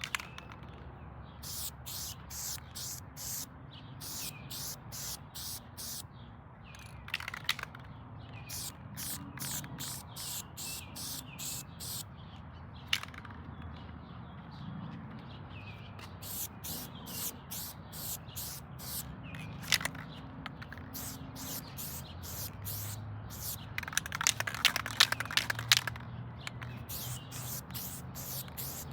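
Aerosol spray paint can sprayed in many short hissing bursts, about two or three a second, in runs with short pauses between them. Near the end comes a louder, busier stretch with some higher chirping sounds mixed in.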